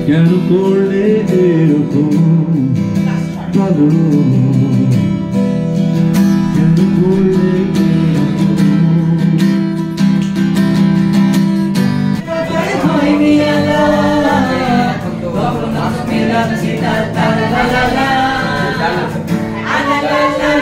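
Acoustic guitar strummed with singing; the singing grows fuller and busier about twelve seconds in.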